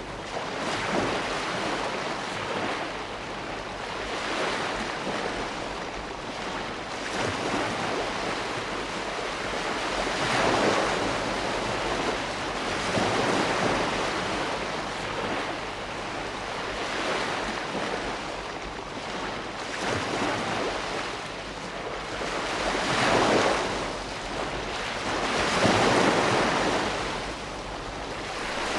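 Ocean surf: waves breaking and washing in, a steady rush of water that swells and falls back every few seconds.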